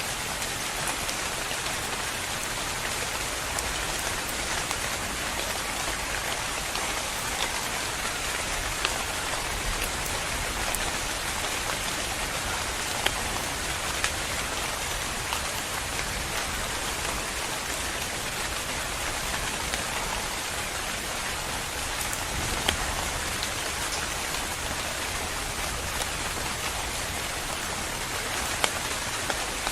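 Steady rain falling on a surface, an even hiss with occasional sharper drop ticks.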